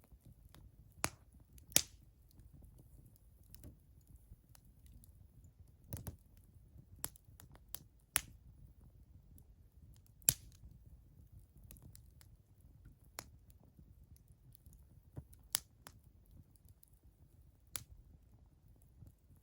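Wood fire crackling, with irregular sharp pops from the burning logs over a faint low rumble of the flames.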